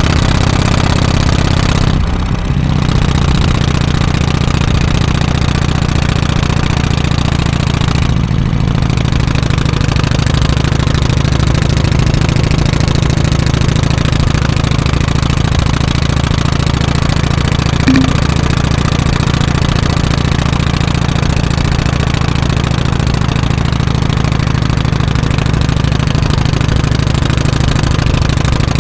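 Harley-Davidson FXSTC Softail Custom's 1340 cc Evolution V-twin running steadily through its exhaust. There are brief dips in the note about two and eight seconds in.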